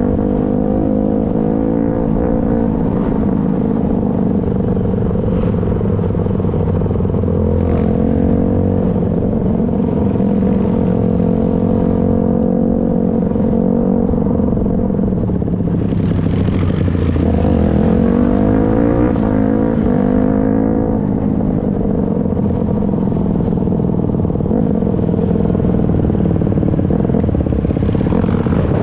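Dirt bike engine running under way, its pitch rising and falling as it revs, with a longer climb in revs a little past the middle.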